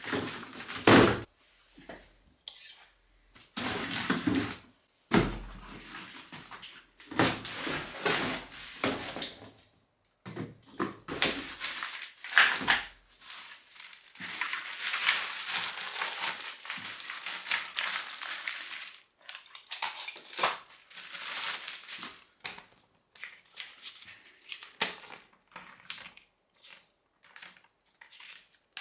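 A bike repair stand being unboxed: its metal parts knock and clink as they are handled, in irregular bursts with a few longer stretches of rustling packaging.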